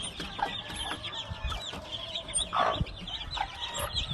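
A brood of young chicken chicks peeping rapidly and continuously in many short high chirps, with a brief rustling burst about two and a half seconds in.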